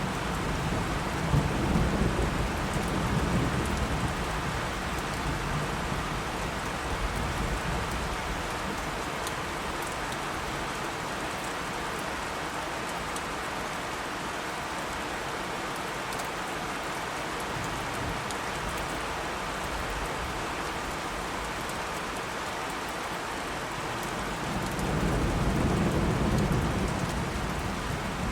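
Steady heavy rain with rolling thunder: low rumbles swell about a second in and fade by about four seconds, then return near the end.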